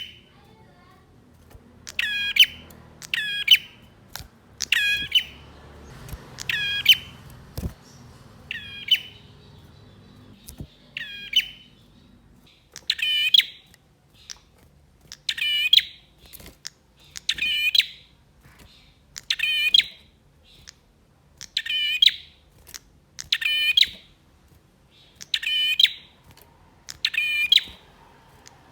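Male prinia (prenjak) in full, agitated song: a short, sharp chirping phrase repeated about every two seconds, sometimes given twice in quick succession.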